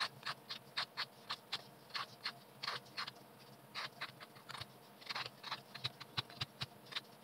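Vegetable peeler scraping the skin off a raw potato in short, quick strokes, about three a second, with a couple of brief pauses as the potato is turned in the hand.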